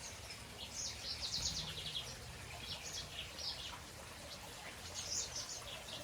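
Small aviary birds, finches and canaries, chirping and twittering in several short clusters of quick, high notes, over a faint low hum.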